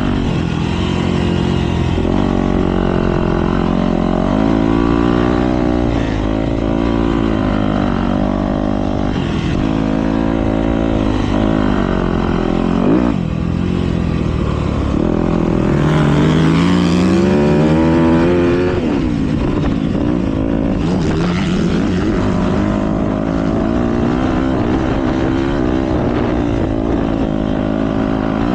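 Motocross dirt bikes racing, their engines revving up and falling back again and again, with several bikes heard at once. One engine climbs loudest about halfway through.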